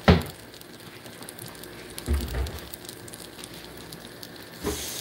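Pancake batter frying on a stovetop griddle, a steady soft crackle and hiss. A sharp knock right at the start is the loudest sound, and a duller low bump comes about two seconds in.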